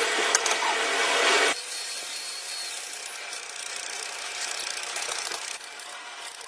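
A power tool running loudly on a metal gear repair, cutting off abruptly about a second and a half in. A quieter scraping follows.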